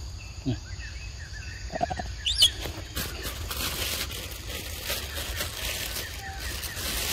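A single high, quick bird chirp about two and a half seconds in, the loudest sound here, then a run of soft crackling and rustling. A steady low rumble runs underneath.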